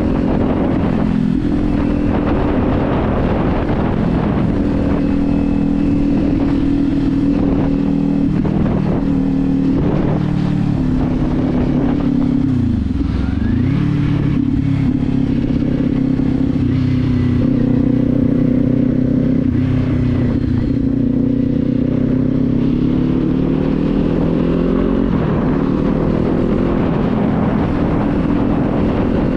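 Kawasaki Z400's 399 cc parallel-twin engine running under way, heard from the rider's position. Its revs drop sharply and climb back about thirteen seconds in, then rise gradually near the end.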